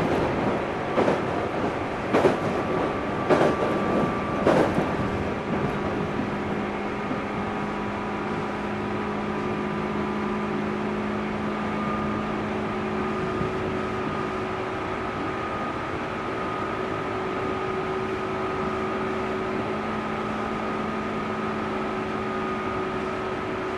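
Running sound inside a JR 205-series electric train's motor car, which has external-fan MT61 traction motors, cruising at steady speed. For the first few seconds the wheels click over rail joints about once a second. After that the ride smooths into a steady rumble with a constant motor and gear whine.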